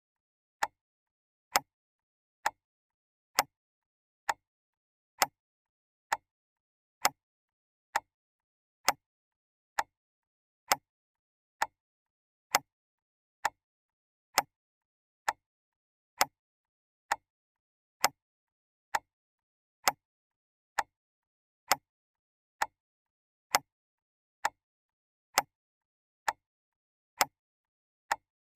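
Clock ticking steadily, a little faster than once a second: single sharp ticks with silence between, alternating slightly in loudness.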